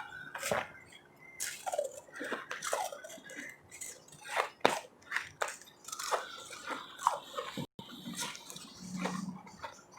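Close-miked biting and chewing of ice: irregular sharp crunches mixed with wet mouth sounds, with the loudest crunch about four and a half seconds in.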